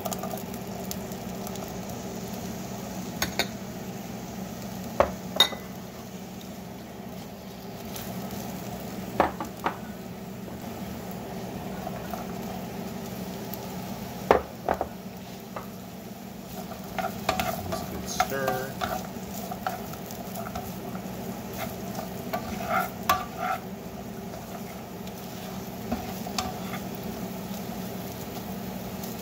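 Chopped bell peppers, carrots and snow peas sizzling in oil in a hot non-stick frying pan, with scattered sharp clacks as pieces drop in and utensils knock against the pan.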